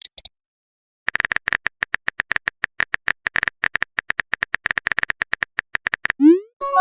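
Phone keyboard typing sound effect: rapid clicks, several a second, for about five seconds. Then a rising swoosh as a message is sent, and a short chime of a few tones near the end.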